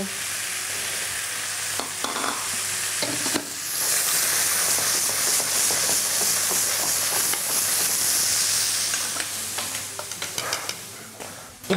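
Chicken fillets frying with garlic in oil in a pan, a steady sizzle that grows louder about three and a half seconds in and dies down near the end.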